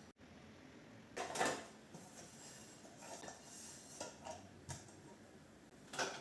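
Dishes and cutlery clinking and clattering as they are handled, in a handful of short, separate bursts, the loudest about a second in.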